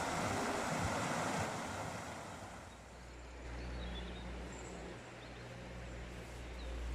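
Rushing water of a mountain river, loudest for the first second and a half and then easing, with a low steady rumble underneath in the second half.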